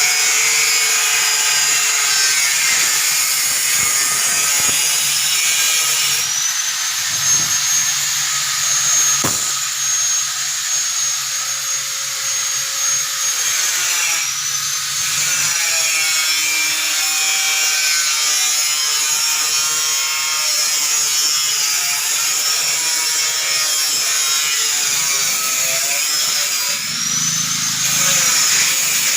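Semi-automatic four-nozzle liquid filling machine running: a steady mechanical whine and hiss, with a high tone that slowly drifts up and down.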